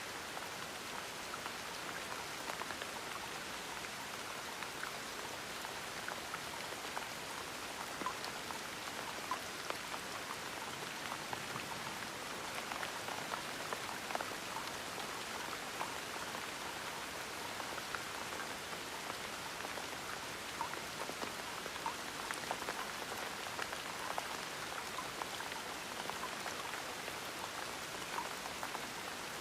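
Gentle rain falling steadily, an even hiss dotted with the ticks of individual drops landing.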